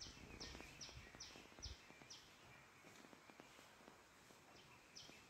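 Faint bird call: a quick series of short, high notes, about two to three a second, that breaks off about two seconds in and starts again near the end.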